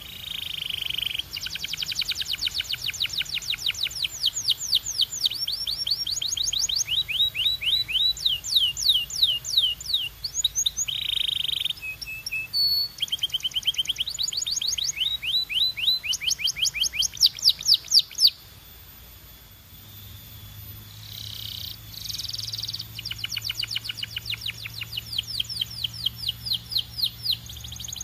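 Canary singing in fast trills: rows of high, quick, downward-sweeping notes, several per second, with the note type changing from one phrase to the next. The song breaks off for about three seconds past the middle, then starts again.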